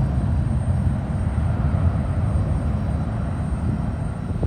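Airliner's jet engines rumbling, a steady low roar that eases slightly toward the end.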